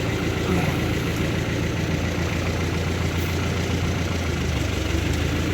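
A motor vehicle's engine idling steadily, an even low hum with no change in speed.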